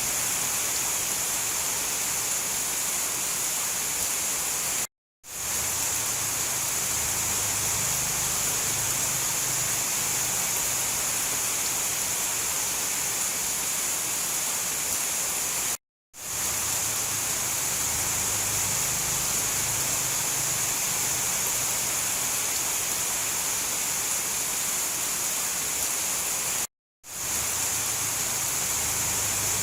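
Steady rain, a dense even hiss strongest in the treble. Three times, about every eleven seconds, it cuts out suddenly to silence for a moment and swells back in.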